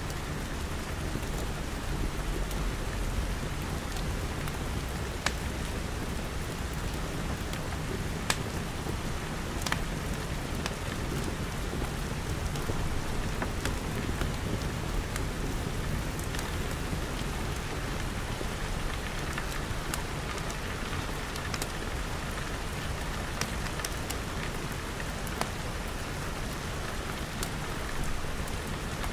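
Steady rain pattering on glass walls and a glass roof, with a few sharp clicks scattered through it.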